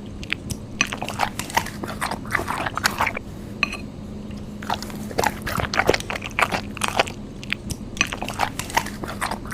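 Close-miked eating of noodle soup: irregular wet chewing, smacking and slurping sounds, with a faint steady hum underneath.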